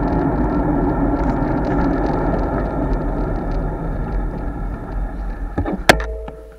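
Wind buffeting and road noise on a bicycle-mounted action camera while riding, easing off over the last second or so. A sharp click comes near the end.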